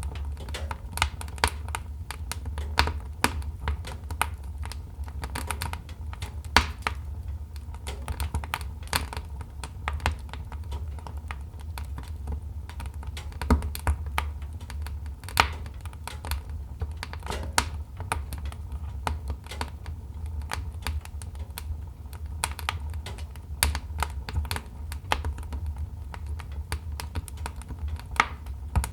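Wood fire crackling in a fireplace: a dense, irregular run of sharp pops and snaps, a few much louder than the rest, over a steady low rumble.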